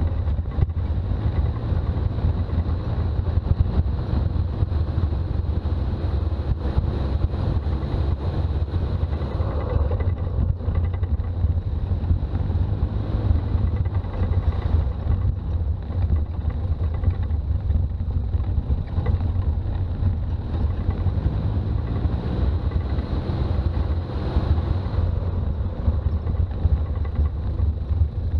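Toyota BJ40 4x4 with its diesel engine, driving along: a steady low engine and road rumble that holds even throughout.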